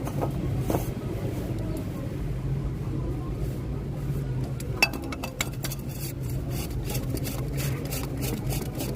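Metal tools and parts clinking and tapping while an oil filter is fitted to a truck engine, with a run of quick light ticks in the second half, over a steady low hum.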